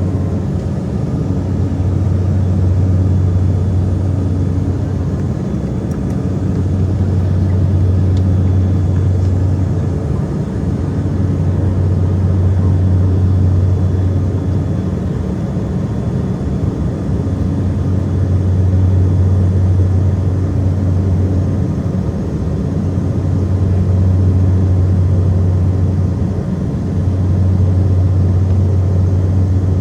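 Saab 340 twin turboprop drone heard from inside the cabin: a loud, steady low propeller hum that swells and fades every few seconds as the two propellers beat against each other.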